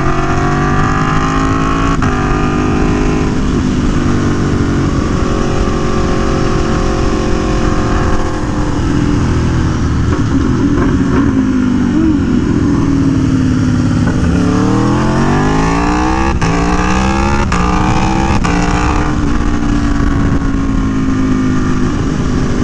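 Aprilia Tuono V4 1100's V4 engine through an SC Project CR-T exhaust, heard from the rider's helmet at cruising speed with wind noise. Its pitch sags through the middle, then climbs hard under acceleration about two-thirds in, with a few quick upshifts, before settling back to a steady cruise.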